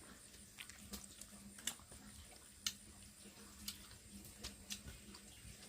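Faint, irregular small clicks and taps of people eating boiled corn, about a dozen spread unevenly, over a faint steady hum.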